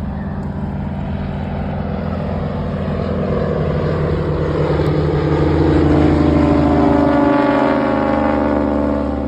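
Propeller aircraft flying past: the engine grows louder, then drops in pitch as it passes about seven seconds in.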